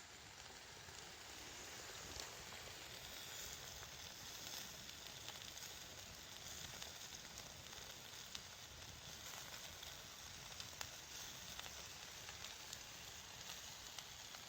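Wood campfire burning: a faint steady hiss with scattered sharp crackles.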